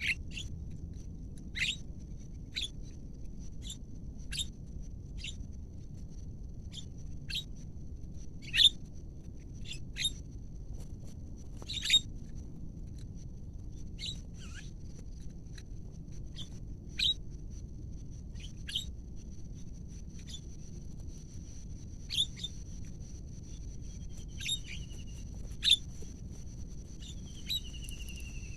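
Repeated short, sharp bird calls, roughly one a second, with two slow falling whistles near the end, over a steady high thin whine.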